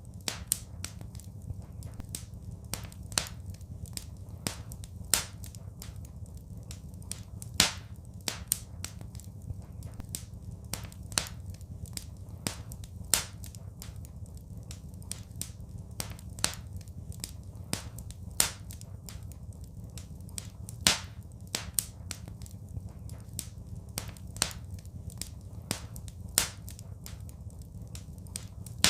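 Wood fire crackling: irregular sharp snaps and pops, a few much louder than the rest, over a steady low rumble.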